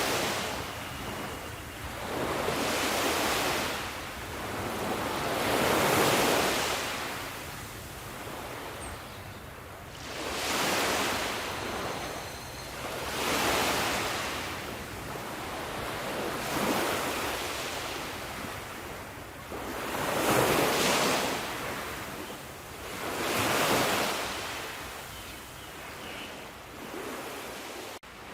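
Sea waves breaking and washing on a shore: a hissing surf that surges and recedes in a repeating rhythm, one swell every three or four seconds.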